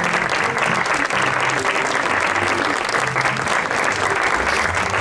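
Crowd applauding steadily, a dense continuous clapping.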